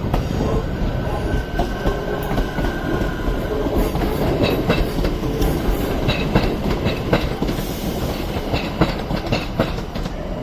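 Northern Class 323 electric multiple unit pulling out of the station with a steady rumble. From about four seconds in, its wheels click over rail joints and pointwork in a run of paired clicks.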